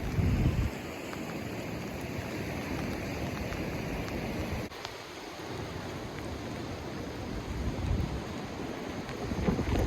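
Steady wash of heavy rain and ocean surf, with wind gusting on the microphone near the start and again near the end. The sound changes abruptly a little under five seconds in.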